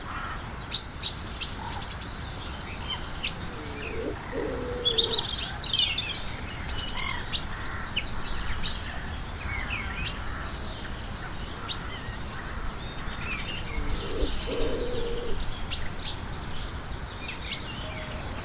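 Several UK garden birds chirping and singing, with many short high chirps and quick trills overlapping, and twice a lower call about four and fourteen seconds in.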